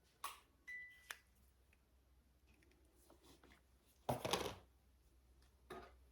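Faint handling sounds of small objects: a few light clicks, one with a brief metallic ring, and a short rustle about four seconds in.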